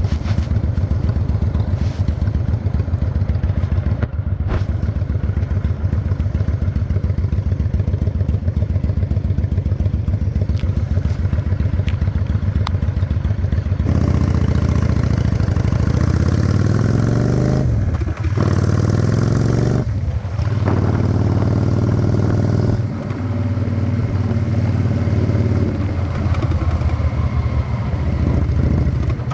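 Honda Shadow 600 V-twin engine on a rigid chopper, running at low steady revs for about half the time. Then it pulls away, the revs rising and dropping back at gear changes about four, six and nine seconds later.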